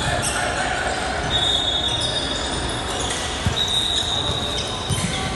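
Basketball game in a gym: a ball bouncing on the hardwood court with a few thumps, and two high shoe squeaks each about a second long, over a background of gym noise.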